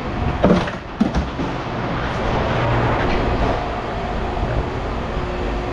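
Running heavy machinery giving a steady low mechanical rumble, with two sharp knocks about half a second and one second in.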